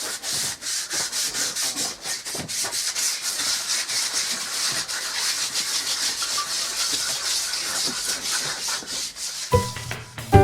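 Hand sanding of wood: sandpaper rubbed back and forth over a board in quick, even strokes. Music comes in near the end.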